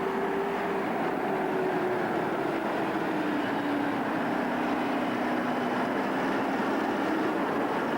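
Heavy farm machinery running steadily under load, with a whine that slowly drops in pitch.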